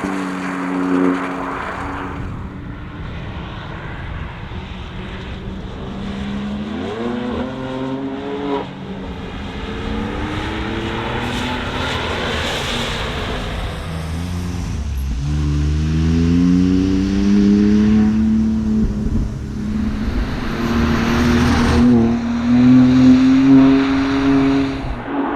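BMW M2 Competition's twin-turbo 3.0-litre straight-six engine driven hard, revs climbing and dropping back several times as it changes gear.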